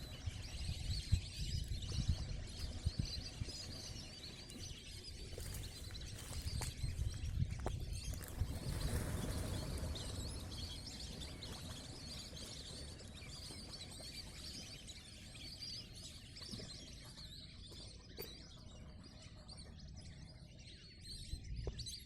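Small birds chirping and twittering repeatedly over a steady low rumble.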